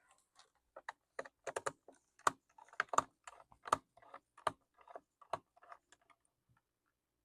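Irregular small clicks and taps of a screwdriver working at a screw in a Lenovo T430 laptop's plastic base, as the screw is worked loose.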